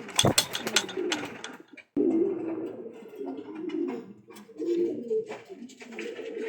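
Domestic pigeons cooing in a loft, several low, rolling coos overlapping throughout. Scattered sharp clicks and knocks come through, most of them in the first second.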